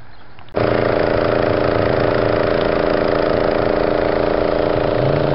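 Vehicle engine idling, heard from inside the cab as a loud, steady hum of several held tones. It starts suddenly about half a second in, and a lower tone joins near the end.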